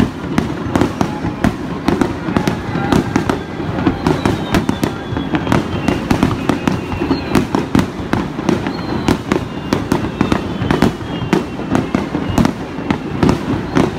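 Fireworks display in full barrage: aerial shells bursting in a rapid string of sharp bangs, several a second, over a continuous rumble.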